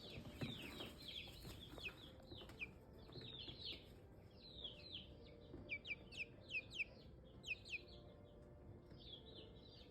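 A young Black Copper Marans pullet peeping: quiet, short high peeps that each drop in pitch, repeated several times a second in loose clusters.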